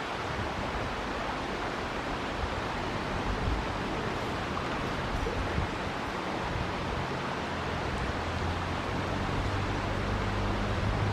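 River water rushing steadily. About halfway through, a low steady engine hum comes in underneath it.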